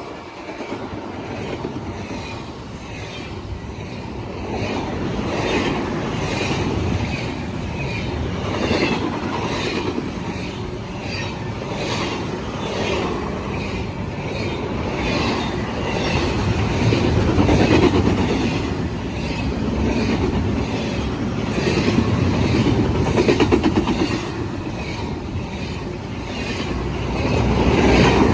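A Norfolk Southern train rolling past, its wheels clacking in a steady rhythm over the rail joints above a continuous rumble that swells and eases.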